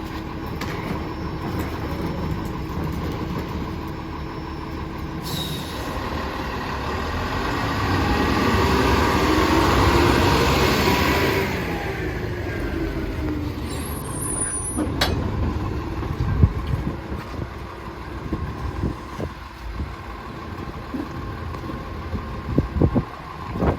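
Heil rear-loader garbage truck running, swelling for several seconds to a loud hiss and whine that falls away in pitch, then settling to a steady drone with a few sharp knocks near the end.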